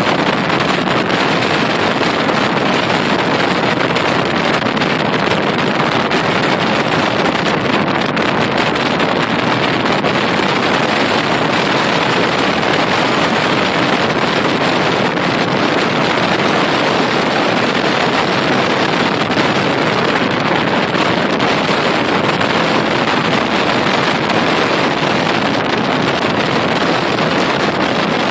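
Steady, loud rushing wind and road noise from a moving vehicle, an even hiss with no engine tone or knocks standing out.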